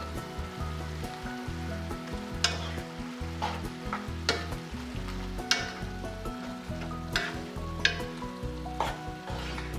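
A noodle stir-fry sizzling in a hot pan as a utensil stirs and scrapes it, with a sharp scrape about every second over the sizzle. Soft background music runs underneath.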